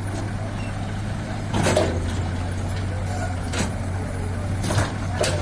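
Heavy diesel engines of a Komatsu PC200 excavator and a dump truck running with a steady low drone, broken about four times by short noisy bursts of clunking or hissing.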